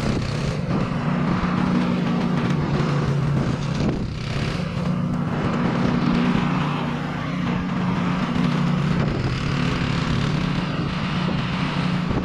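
Snowblower engine running steadily, a loud continuous drone that eases slightly a couple of times as the load changes.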